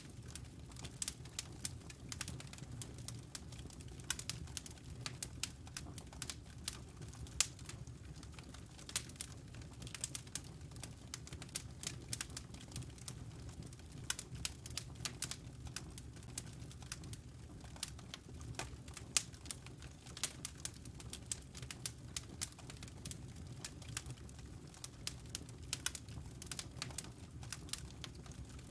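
Wood fire crackling with frequent sharp pops and snaps, over a low, steady purring rumble, most likely a cat purring.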